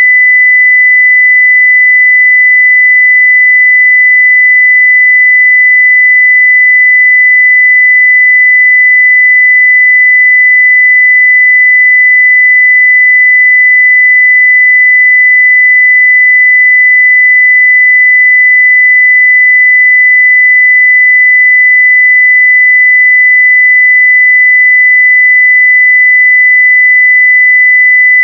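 A steady 2 kHz sine-wave test tone at full level, one pure unchanging pitch.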